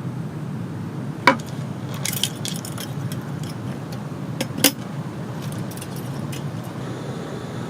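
Light metal and glass clinks of camp gear being handled: two sharp clinks about a second in and again near the middle, with a scatter of softer ticks between and after. Steady rain-like rushing underneath.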